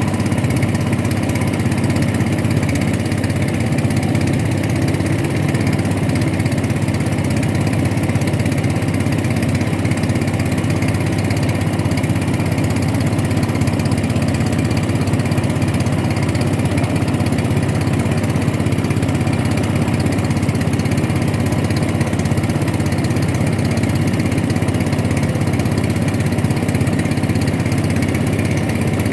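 Boat engine running steadily at constant speed, a loud, even hum with no change in pitch.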